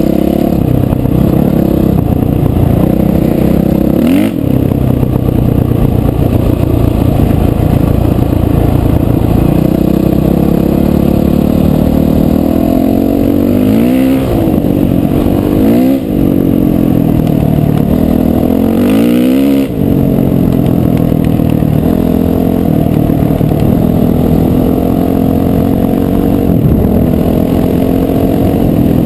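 Dirt bike engine running under way along a gravel track. The engine note repeatedly falls and climbs again with the throttle, with short breaks in the sound about 4, 16 and 20 seconds in, as at gear changes.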